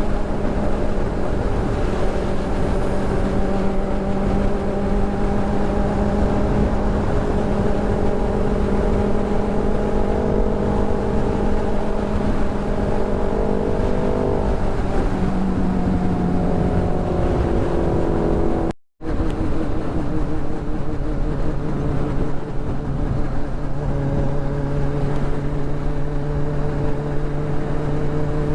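Kawasaki Ninja motorcycle engine running steadily at cruising speed, with wind rush over the helmet microphone. The sound cuts out for an instant about two-thirds through, and the engine note settles lower near the end.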